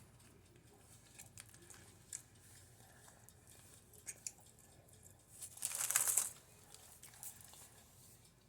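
A few faint clicks, then a brief crinkling rustle of paper sandwich wrapping about six seconds in.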